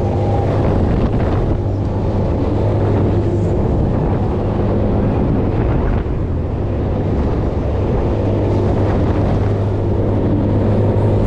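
Wind rushing over the microphone on a moving thrill ride, over a steady low machine hum from the ride's drive.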